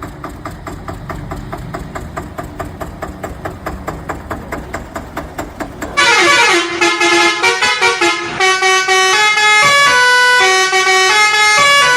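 A steady pulsing vehicle engine sound, about five beats a second, then about halfway a sudden, much louder horn-like run of held notes stepping up and down in pitch like a tune.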